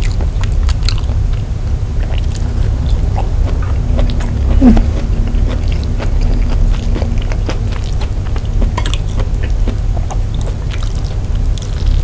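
Close-miked chewing of rice and side dishes eaten by hand, with many short wet mouth clicks and smacks, over a steady low rumble.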